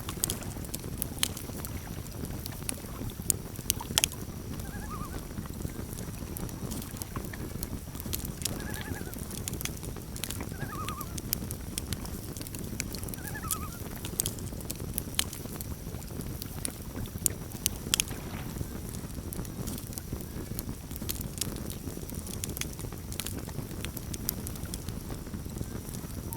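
Campfire burning with a steady low rumble and frequent sharp crackles and pops, a few louder pops standing out. A few faint, short animal calls sound now and then in the background.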